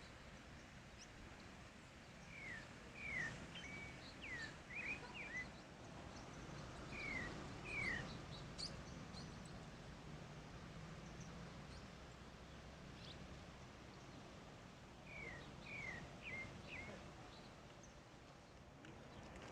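Pale-breasted thrush (sabiá-barranco) singing faintly: phrases of short, downward-slurred whistled notes, about two to five seconds in, again around seven to eight seconds, and once more near sixteen seconds.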